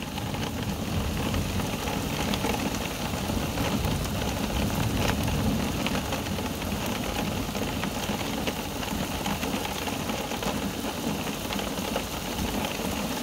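Steady rain falling in a thunderstorm: a continuous hiss of rain with many small drop clicks, and a low rumble underneath.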